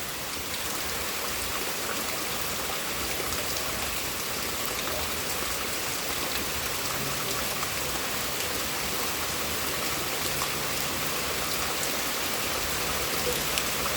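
Steady heavy rain from a thunderstorm, falling and pattering on surfaces in an even hiss.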